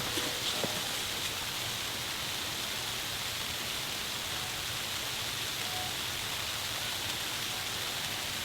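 Steady hiss of a snowstorm, with a few faint ticks in the first second.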